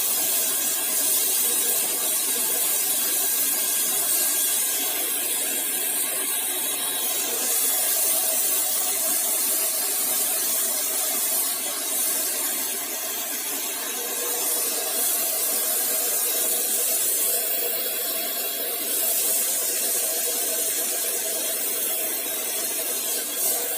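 Paint Zoom handheld electric paint sprayer running and spraying wall paint: a steady motor whine under a continuous hiss.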